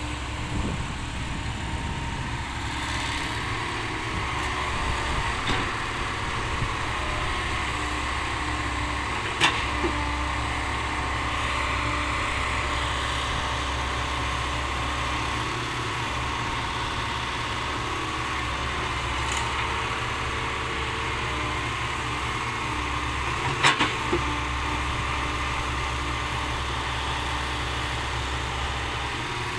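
Heavy diesel dump-truck engines idling steadily. Two sharp knocks stand out over the hum, one about a third of the way in and the other about three-quarters of the way through.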